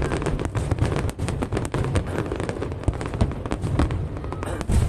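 Aerial fireworks going off: a rapid, irregular run of sharp bangs and crackling, several a second, over a continuous deep rumble of booms.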